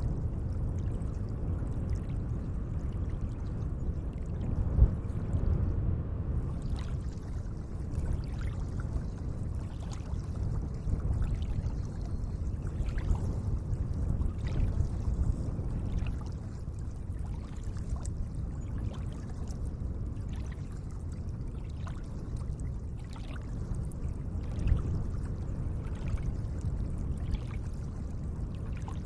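Gentle lake water lapping and trickling: a steady low wash with many small drips and splashes, and a soft low thump about five seconds in and another near the end.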